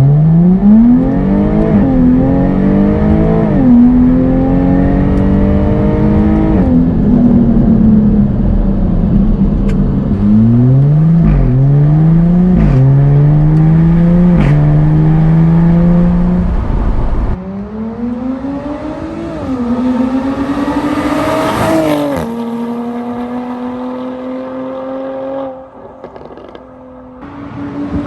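Jaguar F-Type's supercharged 3.0-litre V6 accelerating hard through a string of quick paddle-shifted upshifts, the revs climbing and dropping back at each shift. About two-thirds of the way in it turns quieter, with one more climb and then a steady, lighter-throttle run.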